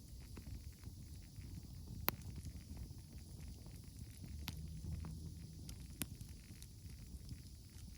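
Wood campfire crackling over a low steady rumble, with three sharp pops about two, four and a half and six seconds in.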